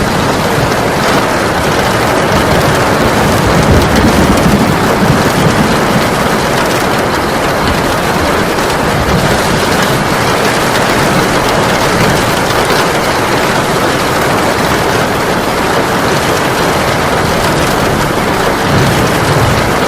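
Heavy rain pouring steadily, with a low rumble swelling briefly about four seconds in.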